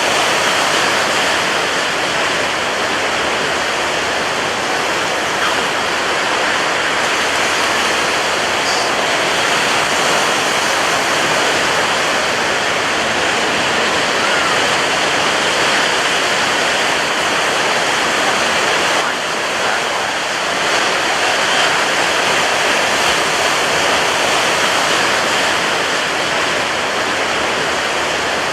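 Ocean surf breaking on a beach, a dense, steady rush of white water without distinct crashes, heavy with foam and spray.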